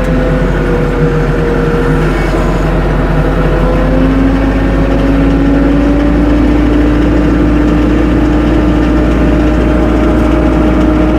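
Tractor engine running steadily, its pitch rising a little about four seconds in.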